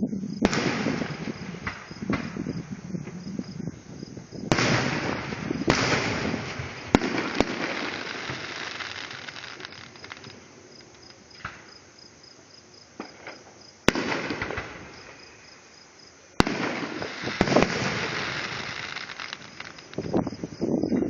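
Fireworks going off: a series of sharp bangs, each followed by crackling and a fading rumble, with a quieter lull in the middle before the bursts pick up again.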